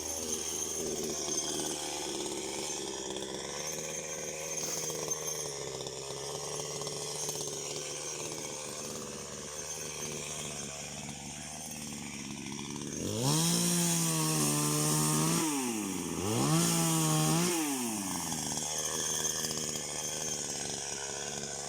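Two-stroke chainsaw idling for a long stretch, then throttled up twice near the end, the pitch rising and held for about two seconds each time before falling back.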